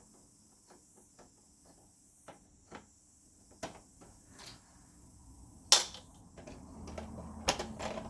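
Light clicks and taps of a projector's plastic and metal parts being handled and pried apart by hand, with a loud click about six seconds in and another near the end, and rustling handling noise between them.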